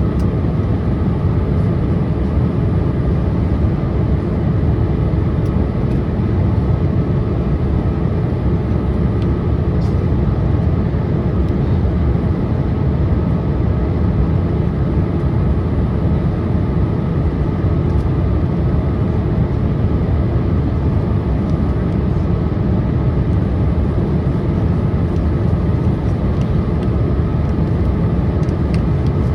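Boeing 787-8 Dreamliner cabin noise during the descent: a steady low roar of the engines and the airflow past the fuselage, with a faint steady hum above it.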